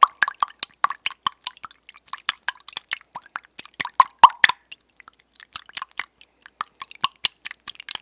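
Close-miked ASMR trigger sounds: rapid, irregular wet, sticky clicks and pops, thinning to a few scattered clicks about five seconds in before picking up again.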